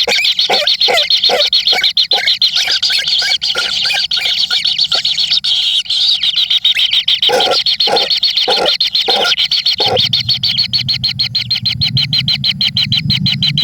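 Young birds calling with rapid, continuous chirps, many a second. Near the end a low steady drone comes in under them.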